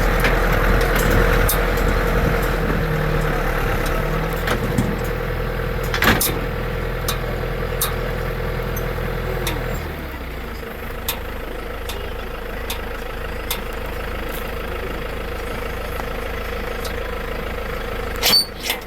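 Tractor engine running steadily, with scattered knocks and rattles. About ten seconds in, the engine note drops lower and quieter, and two sharper knocks come near the end.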